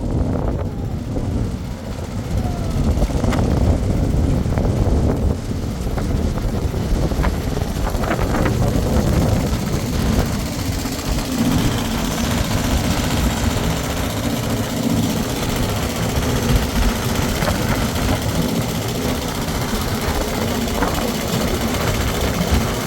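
An engine running continuously, a steady mechanical drone that settles into an even hum about eleven seconds in.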